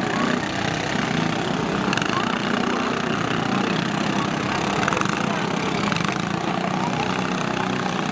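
Several lawn tractor engines running together at a steady pace, with voices in the background.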